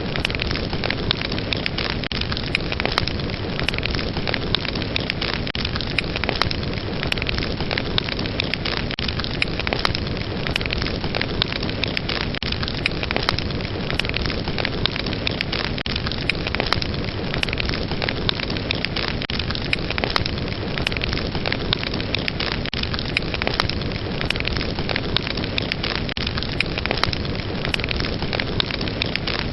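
Fire crackling steadily: a dense, unbroken run of small pops and snaps over a continuous hiss.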